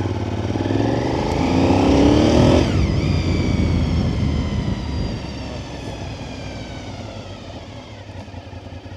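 Honda VTR SP2 (RC51) 999 cc V-twin running through aftermarket silencers, revving up hard for a couple of seconds. About two and a half seconds in the note drops suddenly, then falls slowly and grows quieter as the bike slows.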